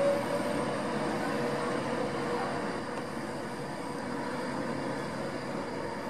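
Class 390 Pendolino electric train moving slowly along the platform: a steady rumble of wheels and traction equipment with a faint whine, easing a little as it draws away.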